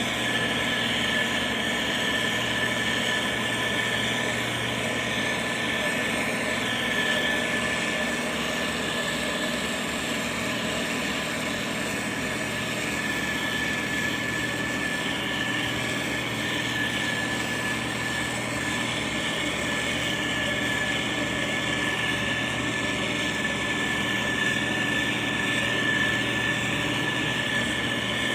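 Diesel engine of heavy road-building machinery running steadily, with a constant high-pitched whine over the engine note.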